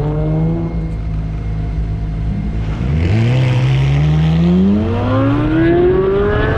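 Car engine accelerating hard, its pitch climbing steadily. About two and a half seconds in the pitch drops at an upshift, then climbs again through the next gear.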